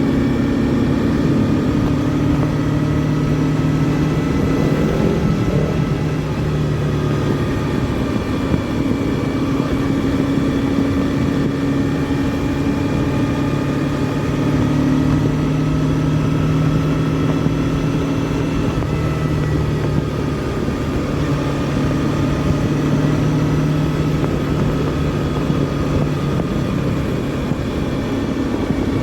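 Honda CBR250R's single-cylinder engine running on the move at a steady cruise. The note shifts a little in pitch with throttle, with a brief change about five seconds in.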